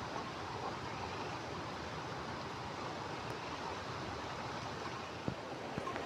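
Steady rushing of a flowing stream, with a single sharp knock about five seconds in.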